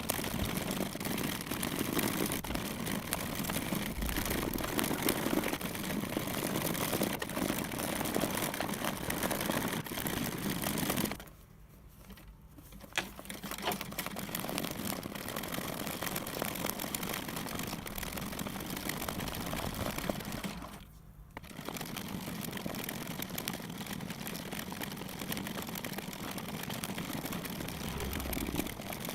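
Sped-up hand embroidery on fabric stretched in a hoop: needle and thread pulled through the cloth run together into a dense, rapid crackle. The sound breaks off briefly twice.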